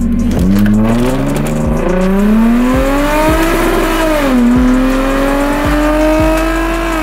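Lexus IS350's 3.5-litre V6 at full throttle through a 0–60 mph run, heard from inside the cabin. The engine note climbs in pitch as the revs rise, dips briefly a few times, and drops sharply near the end as the automatic shifts up.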